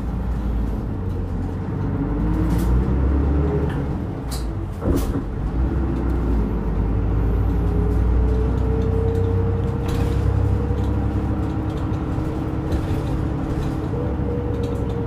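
Nihon Kotsu route bus (fleet no. 385) driving, heard from inside the cabin: a low engine rumble with a whine that rises in pitch as the bus gathers speed. A knock about five seconds in is followed by a second climb, after which the whine holds steady.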